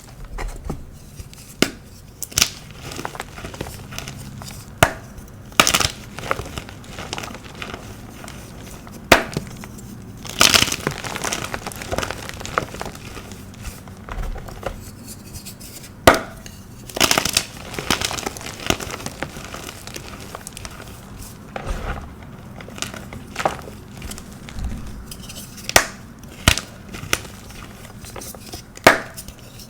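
Pasted blocks of dyed gym chalk being crushed and crumbled, with irregular sharp cracks and crunches over a softer crumbling.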